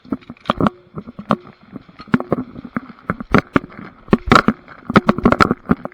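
Quick, irregular knocks and clicks, a few of them loud: footsteps and gear knocking about as an airsoft player sets off at a run.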